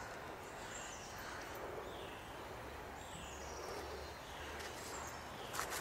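Faint outdoor ambience with a bird calling in the background: a series of short, high, falling chirps. A soft click comes near the end.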